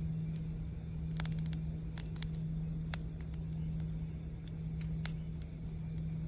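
Campfire crackling: irregular sharp pops and snaps over a steady low hum.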